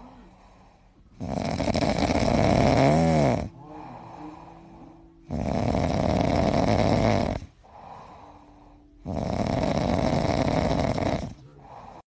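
Heavy snoring: three long, loud snores about four seconds apart. The first ends in a short wavering, whistling note.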